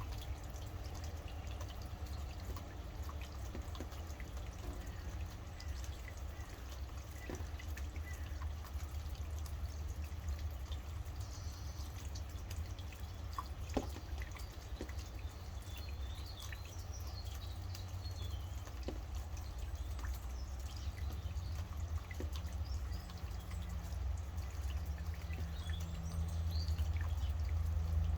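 Steady rain with scattered drips, and faint bird chirps now and then over it. A steady low rumble runs underneath and grows louder near the end.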